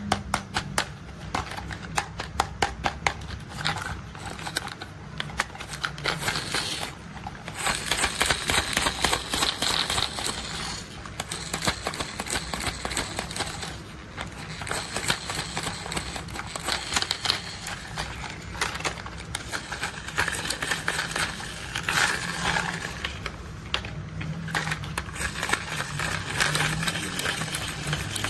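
Rapid, dense plastic clicking and rattling from toy construction vehicles being handled.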